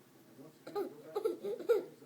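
A baby's voice giving a quick string of short, high babbling squeals, starting about two-thirds of a second in.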